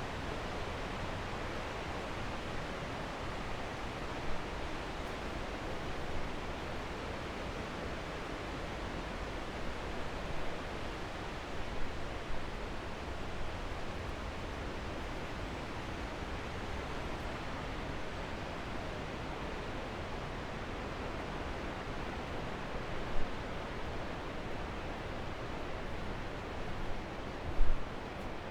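Steady rush of flowing water, an even hiss, with a few short low thumps, the loudest near the end.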